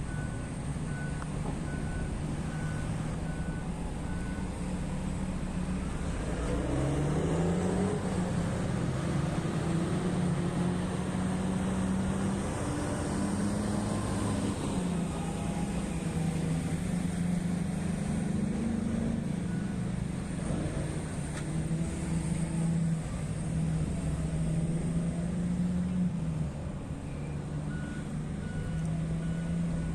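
Diesel engine of heavy mining equipment running under load, its pitch rising about six seconds in and then wavering, with a reversing alarm beeping in the first few seconds and again near the end.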